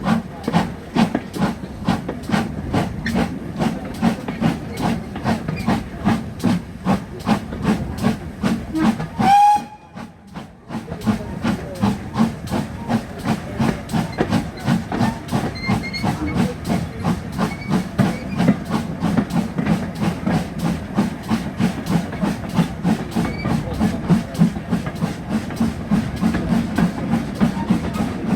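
Steam locomotive sound: steady exhaust chuffs at about four a second with hiss, and one short whistle about nine seconds in, after which the sound dips briefly before the chuffing carries on.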